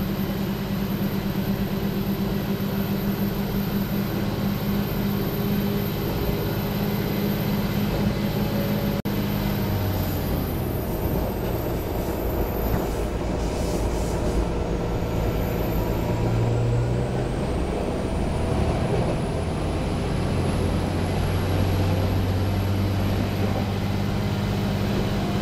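A diesel airport train heard from inside the carriage: the engine's loud drone runs with rail and wheel noise, and its pitch shifts lower about a third of the way in.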